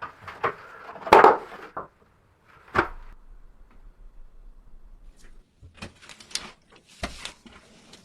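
A handful of sharp knocks and thuds, the loudest about a second in, followed near the end by a short spell of scraping and rustling with a couple more thuds.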